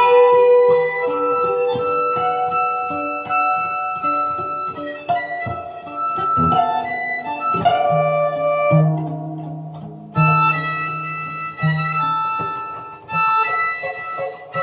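Acoustic guitar and violin playing a free-form improvisation without a set tune: plucked guitar notes ringing out under held and wandering violin lines.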